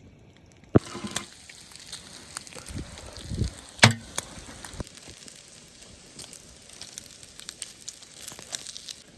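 Campfire crackling: many sharp pops and snaps over a steady hiss, with a couple of heavier knocks, the loudest about four seconds in.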